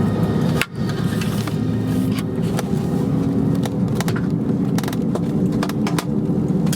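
Steady low hum of an Airbus A321 cabin at the gate, with scattered light clicks and rattles; the sound briefly drops out under a second in.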